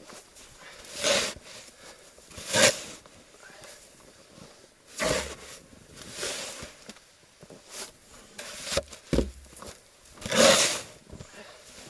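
Snow shovel digging into deep snow: about six short scraping strokes, a second or two apart, two of them louder than the rest.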